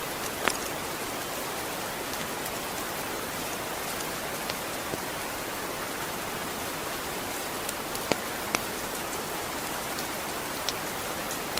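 Steady rain falling, an even hiss, with a few sharp, louder drops striking close by: one about half a second in and two in quick succession near the end.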